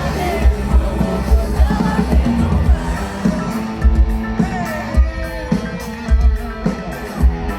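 Rock band playing amplified, with a thudding kick-drum beat, bass and electric guitar, and singing. A long note slides downward in pitch over the last few seconds.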